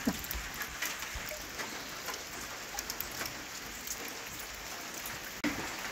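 Steady rain pattering, an even hiss of drops with faint scattered ticks, broken off briefly near the end.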